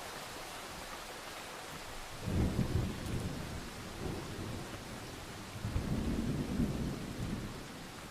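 Steady rain falling, with rolling thunder rumbling in two low swells from about two seconds in, then fading away near the end.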